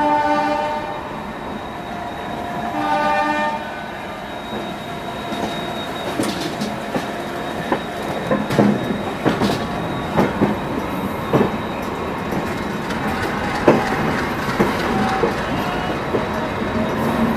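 A WDM3A diesel locomotive's horn sounds, stopping under a second in, and gives a second short blast about three seconds in. After that the train runs on with wheels clattering over rail joints, a string of irregular sharp knocks over a steady rolling rumble.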